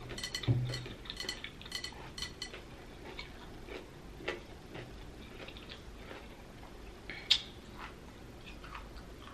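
Close-miked chewing of crunchy pickled vegetable: a quick run of crisp crunches in the first couple of seconds, then slower, softer chews, with one sharper crunch near the end.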